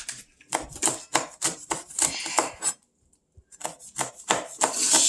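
Kitchen knife chopping and slicing on a cutting board in quick strokes, about four or five a second, pausing briefly about halfway through.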